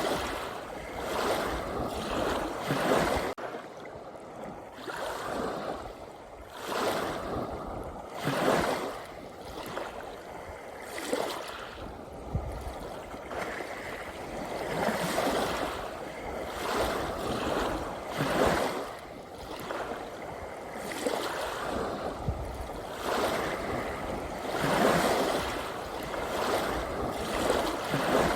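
Small sea waves washing in, one swell of water after another every two to three seconds.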